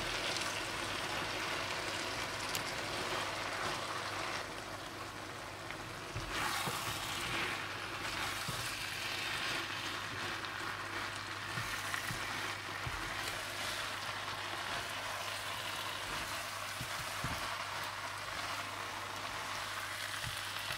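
Potatoes and tomato masala sizzling in hot oil in a nonstick wok as fresh fenugreek leaves and green chillies are tipped in and stirred through with a spoon. The sizzle drops back for a couple of seconds about four seconds in, then picks up again, with a few light taps of the spoon.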